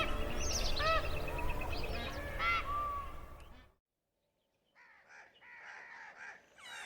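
Bird calls over soft background music. The sound fades out to a brief silence about four seconds in, then a busy chorus of birds chirping and calling comes in.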